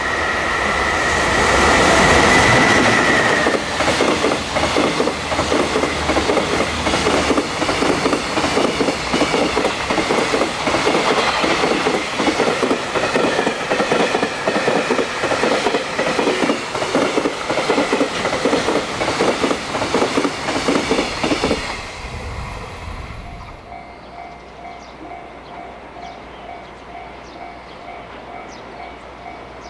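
JR Freight EF210 electric locomotive and its container wagons passing at high speed: a steady two-tone sound in the first few seconds, then a long, rapid clickety-clack of wheels over rail joints that stops suddenly about twenty-two seconds in. After that a faint tone pulses evenly, several times a second.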